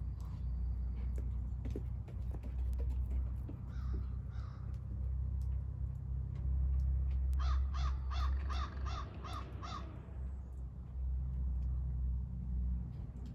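Crows cawing: two calls about four seconds in, then a quick run of about seven caws a little past the middle. A steady low rumble lies underneath.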